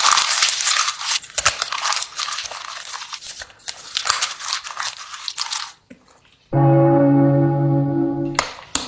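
Close-up crunching and chewing of a big bite of hard, crunchy food for about six seconds. After a short pause, a steady buzzing electronic tone sounds for about two seconds.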